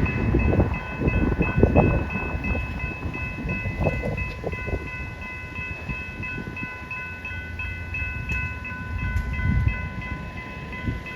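Level crossing warning bell ringing in an even, quick repeat while a train runs past with a rumbling, uneven low noise of wheels on rail.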